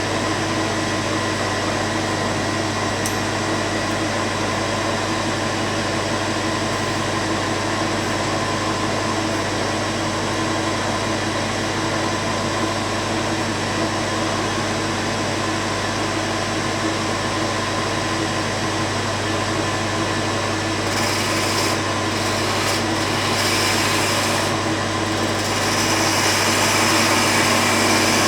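An electric power tool's motor running steadily, a continuous whine with hiss. From about two-thirds of the way in the high hiss shifts and comes and goes, and the sound grows a little louder near the end.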